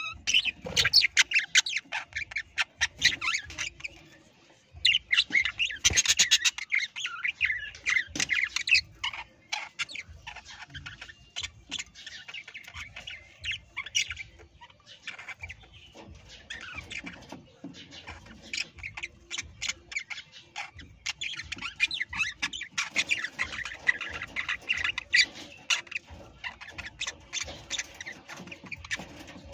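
Parrots chirping and squawking in busy, overlapping bursts, with many short sharp clicks mixed in.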